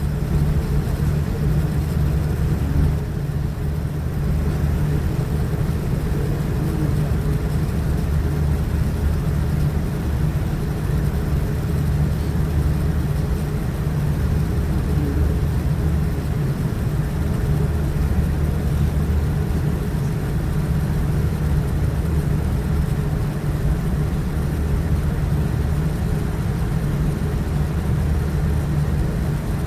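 Steady cabin noise inside a Boeing 787-9 airliner during departure: a constant low drone from its Rolls-Royce Trent 1000 engines mixed with the rush of airflow, holding level throughout.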